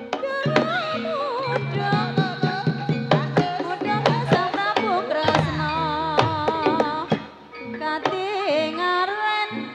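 Javanese Banyumasan gamelan music for ebeg: sharp kendang hand-drum strokes and sustained metallic tones under a sindhen's ornamented sung melody. The music dips briefly about three-quarters of the way through.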